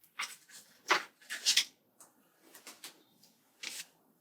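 Sticker sheets and paper being handled: a series of short rustles and light taps, roughly one or two a second.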